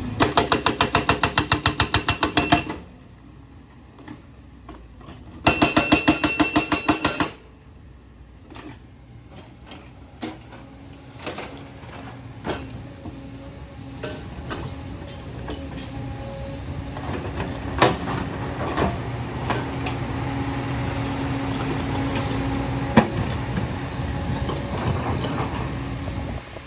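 Hyundai excavator at work. Two bursts of rapid rhythmic clattering, about ten strikes a second, each lasting two to three seconds, come first. The engine then runs steadily under scattered knocks and scrapes.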